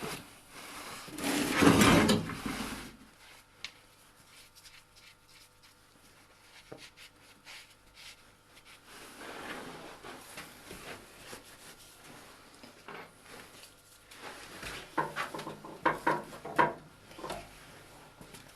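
Workshop handling noises: a loud scrape or rustle about two seconds in, then scattered light knocks and clicks, with a cluster of sharper clicks near the end.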